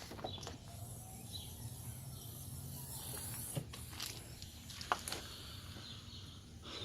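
A handful of sharp clicks and light knocks over a low steady outdoor background, with a few short high chirps.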